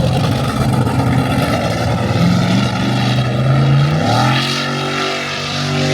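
A loud engine running, its pitch rising in steps about two seconds in and again about four seconds in, as if revving up.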